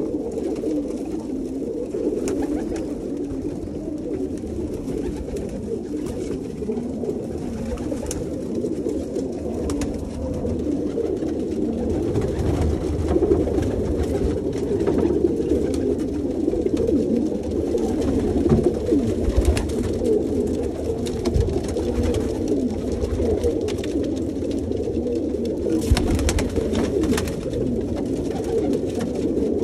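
A flock of domestic pigeons cooing together in a continuous low chorus, with scattered short sharp taps.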